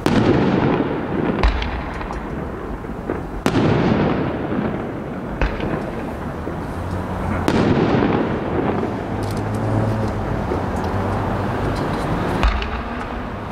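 Aerial firework shells bursting: four big booms a few seconds apart, each followed by a long echoing rumble, with a few sharper thumps between them.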